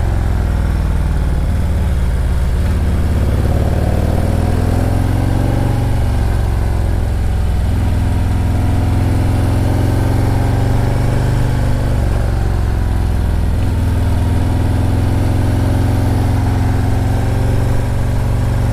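Motorcycle engine running under way, picked up by a helmet microphone, its pitch rising and falling as the rider works the throttle through a run of curves.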